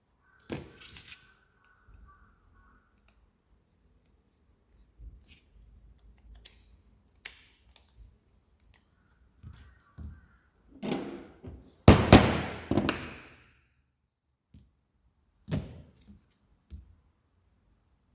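Wooden parts being handled and knocked together, as in fitting interlocking joinery pieces. There are scattered light taps and a few solid knocks, with the loudest cluster of knocks and scraping about twelve seconds in.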